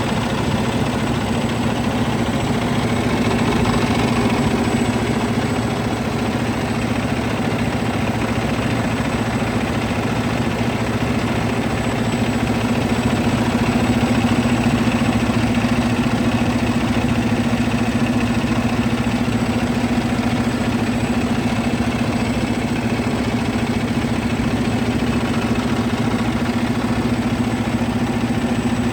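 Cummins X15 15-litre inline-six diesel engine with about 897,000 km on it, idling steadily during a test run in its truck.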